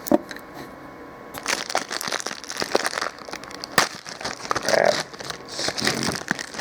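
Plastic wrapper of a microwaved burrito being opened and crinkled by hand: a single click near the start, then dense crackling and rustling from about a second and a half in.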